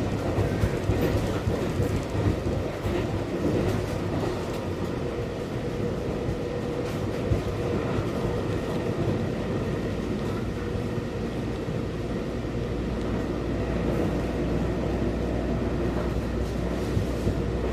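Passenger train running, heard from inside the carriage: a steady rumble of wheels on rail with scattered light clicks.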